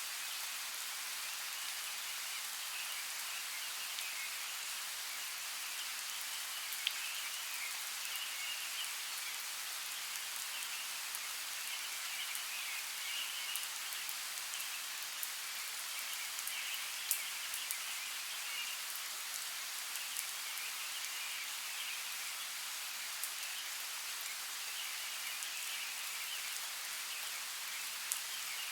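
Steady hiss of flowing water from a forest creek, with occasional sharp ticks like drips. A faint, high-pitched chorus swells and fades now and then.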